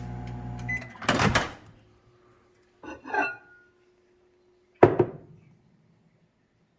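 A microwave oven's hum stops with a short beep, followed by the door being popped open, a bowl being handled with a light clatter, and the door shutting with a sharp knock.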